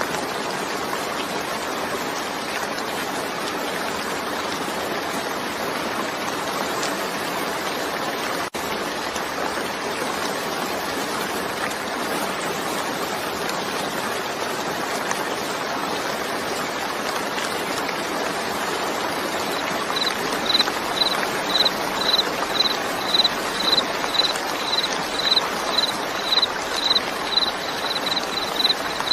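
Steady rain noise. About two-thirds of the way in, a cricket starts chirping at a high pitch, about two chirps a second.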